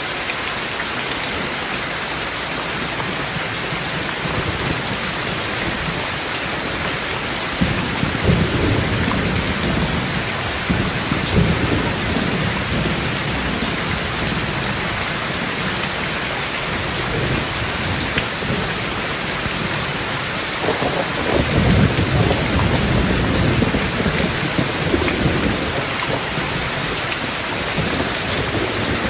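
Steady heavy rain, with rolling thunder rumbling twice: once from about a quarter of the way in, and again about two-thirds of the way through.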